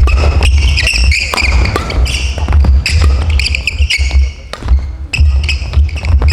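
Badminton doubles rally: repeated sharp racket strikes on the shuttlecock and short squeaks of court shoes on the gym floor, over a steady low hum.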